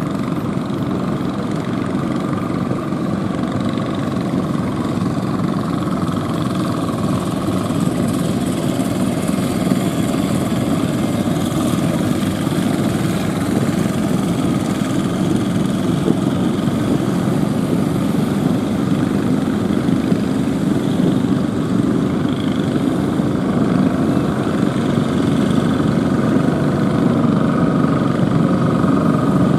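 Fishing boat engines running steadily, a continuous drone with no pauses.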